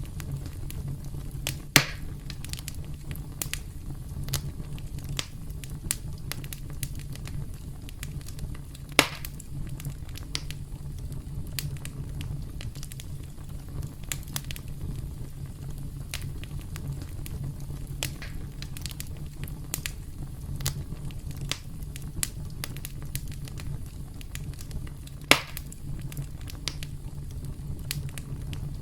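Wood fire crackling: a steady low rumble of burning with frequent small snaps and three louder pops, about two, nine and twenty-five seconds in.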